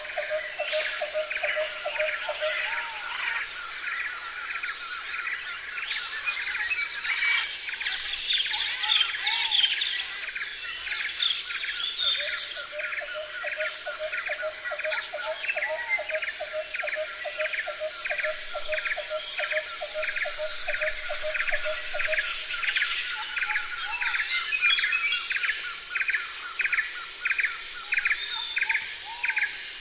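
Birds chirping over a steady high hiss: one call repeats in a steady run of about two or three notes a second, with a faster pulsing lower call in parts and a flurry of higher chirps about a third of the way in.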